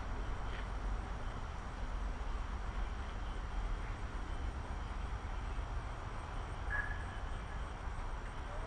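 Steady low rumble with a faint hiss of background noise, and a short high tone about seven seconds in.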